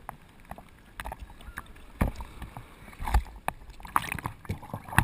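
Sea water splashing and sloshing in the surf, with scattered knocks and two stronger low thumps about two and three seconds in.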